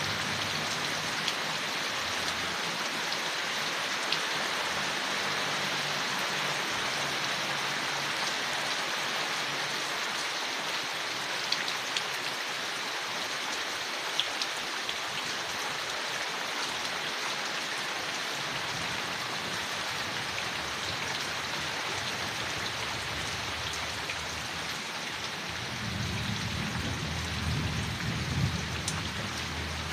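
Steady rain falling on leaves, an even hiss with scattered sharp drop ticks. A low rumble comes in a few seconds before the end.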